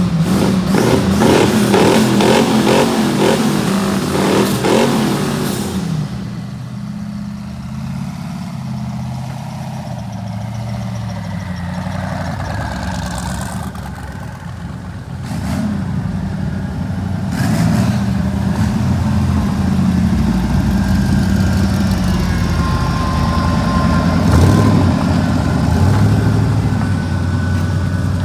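Car engines running at idle with revving, loudest and fullest in the first six seconds, then settling to a steadier engine rumble.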